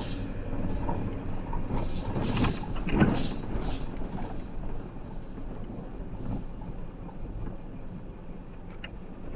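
Steady road and engine noise inside a moving converted ambulance truck, with a few knocks and rattles about two to four seconds in.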